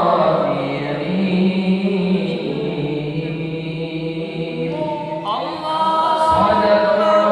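Melodic vocal chanting in long held, ornamented notes; one phrase fades and a new, higher phrase begins about five seconds in.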